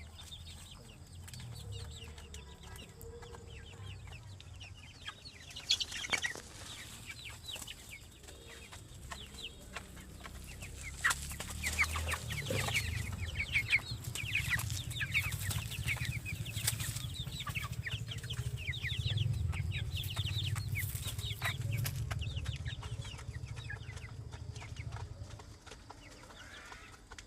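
Domestic chickens clucking and peeping while they feed, many short high calls overlapping, with occasional sharp clicks. A low rumble runs underneath, louder in the second half.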